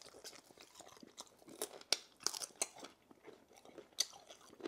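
Close-up chewing and crunching on roast chicken bone: irregular sharp cracks and crunches with wet mouth sounds, the loudest cracks about two seconds in.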